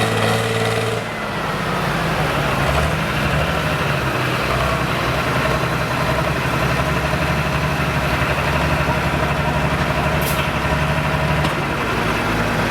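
Modified farm pulling tractor's engine running at a steady, near-constant pitch, with a brief sharp click about ten seconds in.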